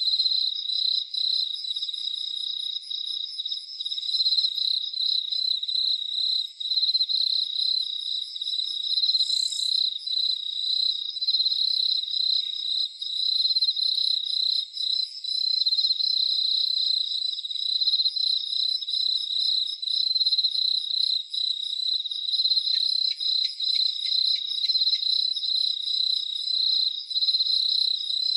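A dense chorus of crickets trilling without pause, a steady high pulsing, with fainter, higher trills from other insects coming and going over it.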